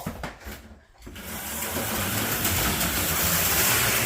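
HO slot cars' small electric motors whirring as they run around the plastic track. After a short lull with a few clicks in the first second, the whir builds up and then runs steadily.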